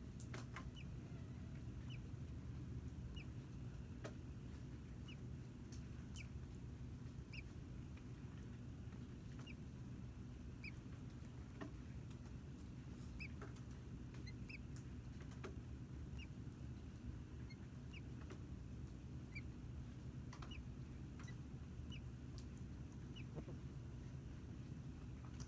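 Faint, short high bird chirps scattered at irregular intervals, roughly one a second, over a steady low hum.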